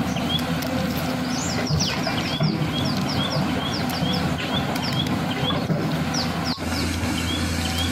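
A bird chirping over and over, about two short calls a second, over a steady low hum.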